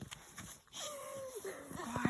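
A dog whining: two falling cries, the second near the end dropping steeply in pitch.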